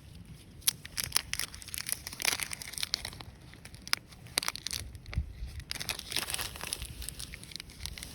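Irregular crinkling and crunching with many sharp snaps, as of something being crumpled or handled, starting under a second in.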